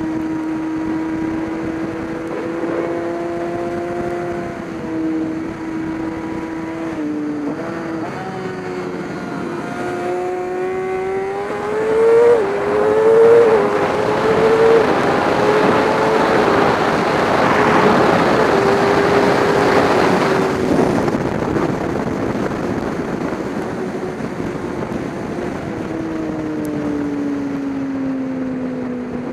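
Race car engine running on track: its pitch dips and steps around a third of the way in, climbs under acceleration, holds, then sinks gradually through the second half. A loud hiss of noise swells over the engine in the middle and fades about two-thirds of the way through.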